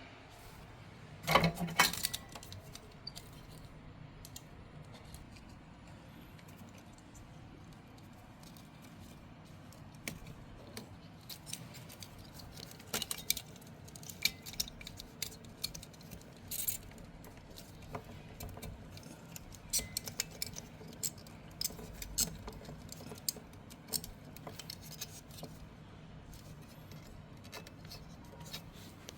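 Small metal tools and parts clinking and clicking while being handled during a fridge starter-relay replacement, with a louder clatter about a second and a half in and scattered clicks later on.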